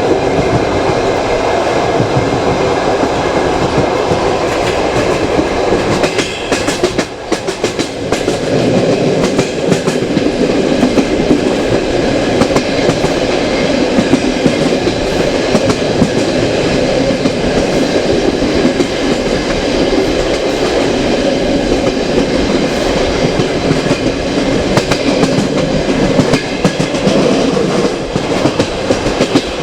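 Passenger train running along the track, heard from a carriage window: a steady rumble with the clatter of wheels on the rails, briefly quieter about seven seconds in.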